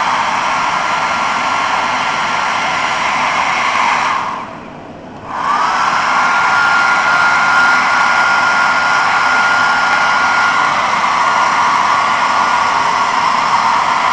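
An 850 W travel hair dryer running: a steady rush of air with a thin motor whine. About four seconds in, the sound drops away, then spins back up a second and a half later as the dryer is switched off and on again.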